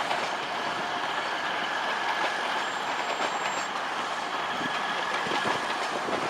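A passenger train running at a station platform, a steady noise with a faint high, even tone running through it.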